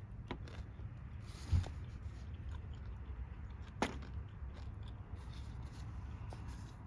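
Steady low background rumble with a soft thump about one and a half seconds in, a sharp click near four seconds, and a few faint ticks.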